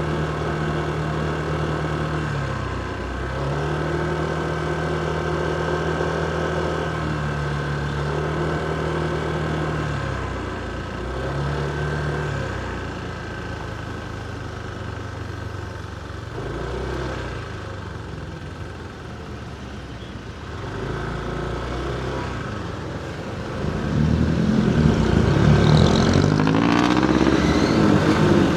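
Motorcycle engine running at street speed, its pitch dipping and returning several times as the throttle is eased off and opened again. About 24 seconds in, a louder engine sound swells with its pitch rising and falling, and stays loud to the end.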